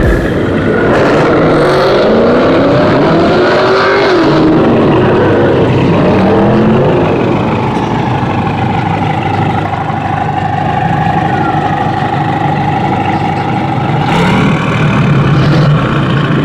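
Loud car engine revving, its pitch rising and falling repeatedly for several seconds, then held at a steady note for about six seconds before revving again near the end.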